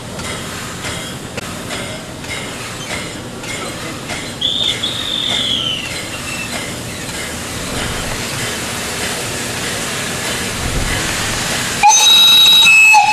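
A train rolls along the rails with repeated wheel clicks over the rail joints and a brief falling wheel squeal about four seconds in. Near the end the steam locomotive's whistle sounds loudly for about a second.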